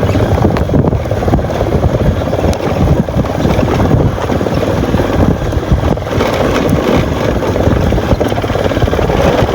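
Motorcycle engine running under way, a steady low rumble mixed with wind buffeting the microphone.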